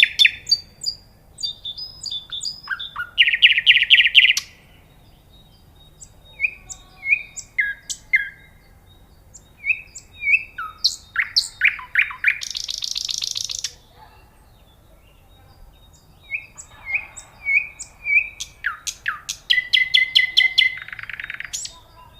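A songbird singing a varied song: phrases of fast trills, slurred whistled notes and rapid repeated chirps, a few seconds each, separated by short pauses.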